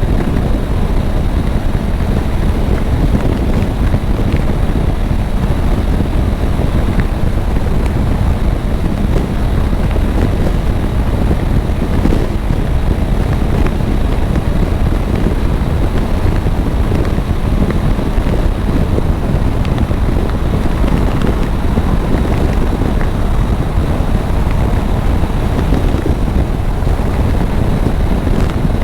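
Steady wind rush over the rider's microphone on a Triumph Tiger 900 three-cylinder motorcycle at highway speed, with the engine's hum and road noise beneath it.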